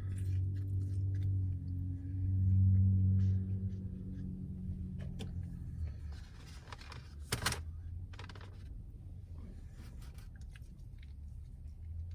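Eating in a car: chewing, with rustling of food packaging and scattered small clicks, including one sharp click past the middle. A low steady hum sounds for the first few seconds and then fades.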